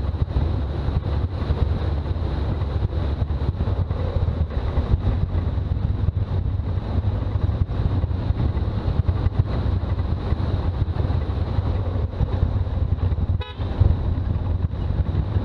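Toyota BJ40 Land Cruiser on the move: a steady low rumble of engine and road noise, with a brief dip near the end.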